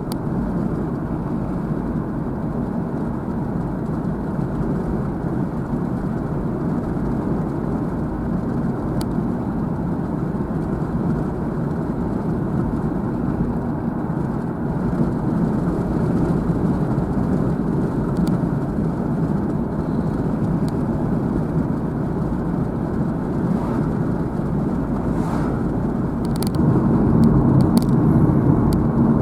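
A car driving along a road, heard from inside the cabin: steady tyre and engine noise, growing louder about three seconds before the end.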